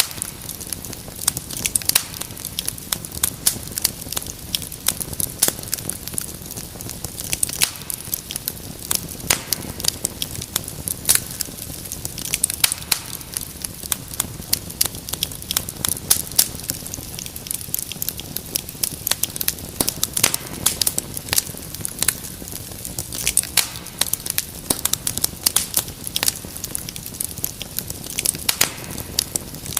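Wood fire crackling steadily, with frequent sharp pops and snaps over a soft low hiss.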